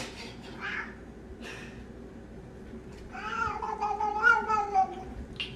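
A domestic cat giving one long, drawn-out yowling meow that starts about halfway through and lasts about two seconds, wavering and dropping slightly in pitch at the end, after a few short soft noises.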